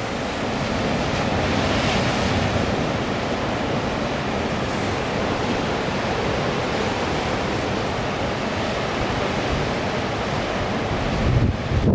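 Strong wind buffeting the microphone over sea surf: a steady rush of noise with rumbling low gusts, loudest near the end.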